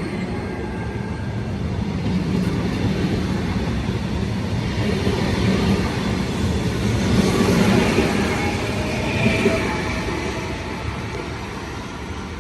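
Train passing by. Its running noise builds to its loudest about eight seconds in, then fades away.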